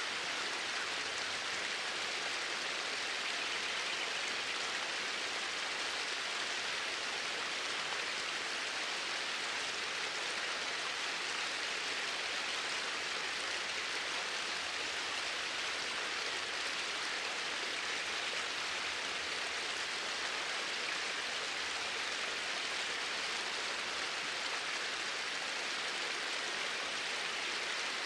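Flowing water, a steady, even rush like a stream, with no change throughout.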